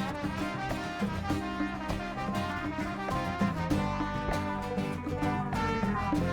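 Live band playing an instrumental passage: a trombone line over a bass line and percussion.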